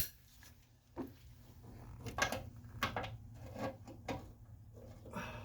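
Hand tools clanking on metal: a sharp click at the start, a knock about a second in, then several irregular lighter clanks as a longer wrench is put to a seized suspension bolt.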